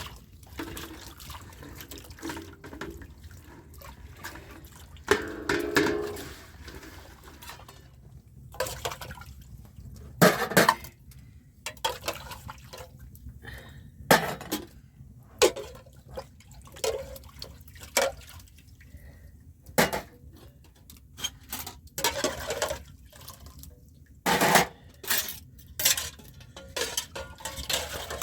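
Irregular clinks and knocks of things being handled, with some splashing of water.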